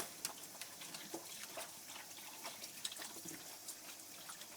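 Faint water dripping and trickling in a bath tub from a freshly rinsed, wet dog, with scattered small drips.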